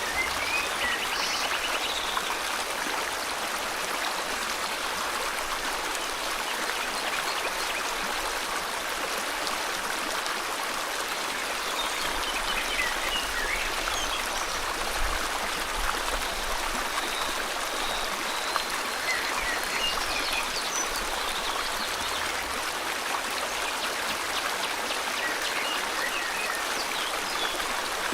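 River water flowing steadily, a constant rushing hiss, with faint bird chirps now and then over it.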